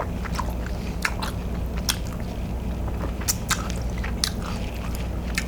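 Close-miked eating of butter-dipped king crab meat: irregular wet mouth clicks and chewing sounds over a steady low hum.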